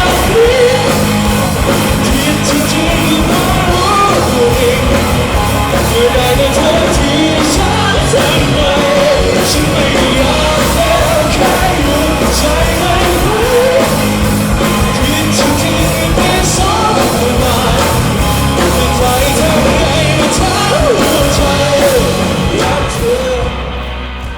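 Live rock band playing with a singer, loud and steady, fading out near the end.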